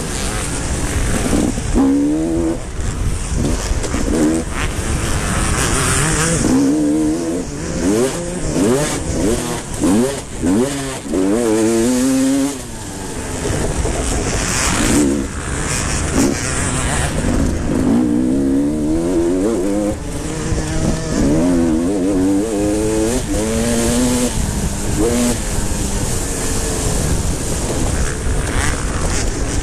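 Motocross motorcycles racing, their engines repeatedly revving up and dropping back as they accelerate and shift, several times over, with more than one bike heard at once.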